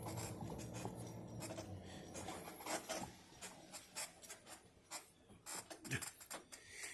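Faint scrapes and clicks of a shovel working loose dirt, after a low steady hum in the first two seconds.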